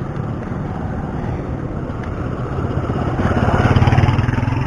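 Road and traffic noise heard while riding a bicycle, with a motor vehicle passing close by. Its engine grows louder about three seconds in and eases off near the end.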